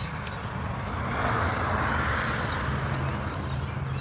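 A passing car, its road noise swelling and fading between about one and three seconds in, over the steady low hum of a scooter's motor.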